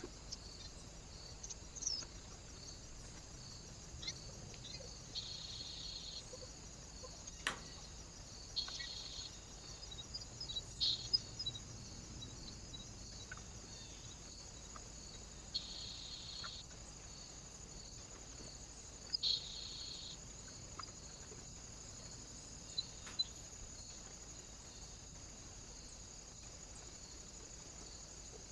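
Small birds at a feeder: scattered short high chirps, sharp taps and a few brief rustling bursts, over a steady high-pitched hiss with an even pulsing pattern.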